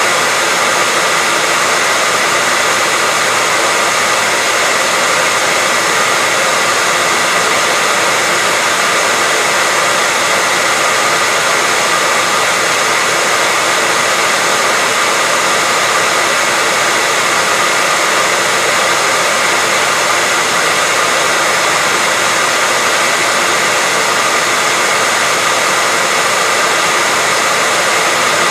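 Hairdryer running continuously at a steady speed: an even, unchanging hiss of rushing air with a faint steady whine from the motor.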